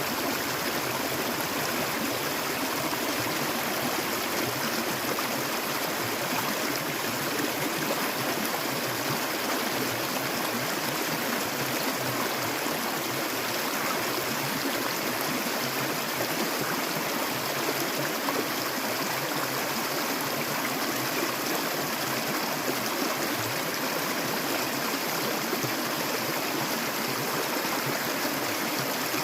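Clear stream water flowing and gurgling in a steady, even rush.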